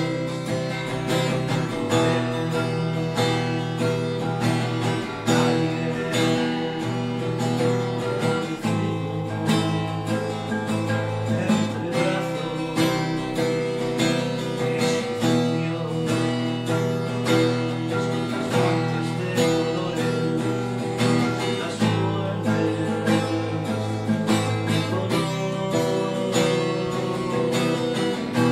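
Background music: strummed and plucked acoustic guitar playing steadily.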